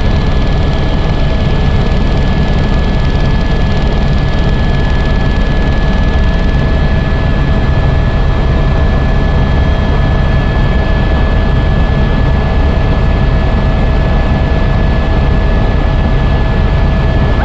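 Helicopter running steadily: a loud, even low rumble of engine and rotor with a thin steady whine held at a fixed pitch.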